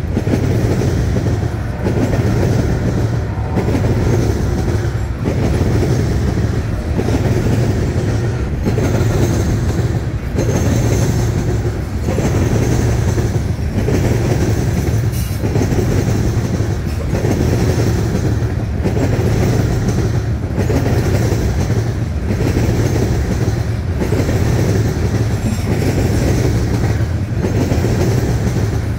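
Covered hopper cars of a freight grain train rolling past close by: a steady, loud rumble of steel wheels on the rails with a rhythmic clickety-clack as the wheel sets pass.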